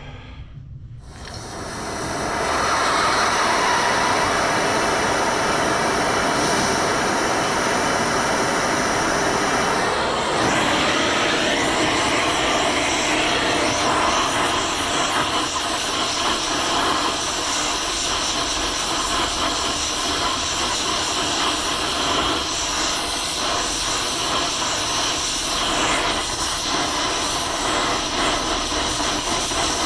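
Gas torch lit about a second in and burning with a steady hiss, heating a mushroomed track pin to free it; the sound of the flame shifts about ten seconds in.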